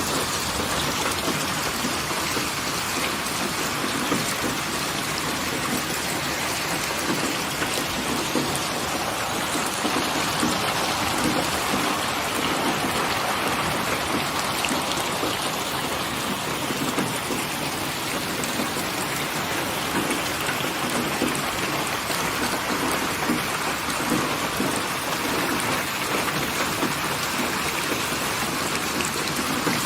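Steady rain falling: an even, unbroken hiss of many small drops that neither builds nor fades.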